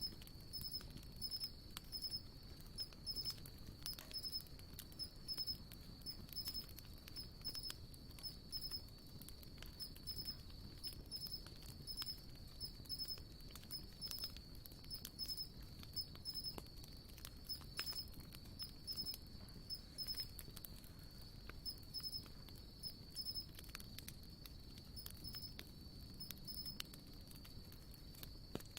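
Wood campfire crackling, with irregular small pops and snaps. A steady high insect trill with pulsing chirps runs underneath.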